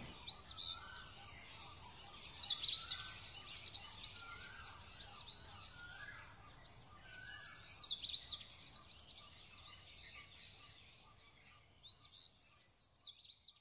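Birds calling: bursts of rapid, high, downward-sweeping chirps, three main runs of them, with softer, lower short whistled notes in between.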